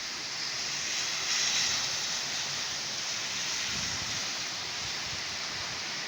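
Heavy rain pouring down in a thunderstorm, a steady hiss that swells briefly about a second in.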